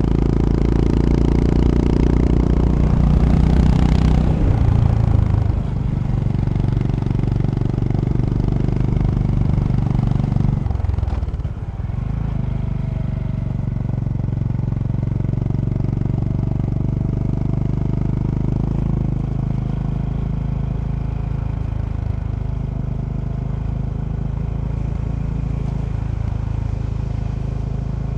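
Honda GB350's air-cooled single-cylinder engine running under way on the road. The engine note shifts in pitch a few seconds in, drops off briefly about eleven seconds in, then settles into a steady run.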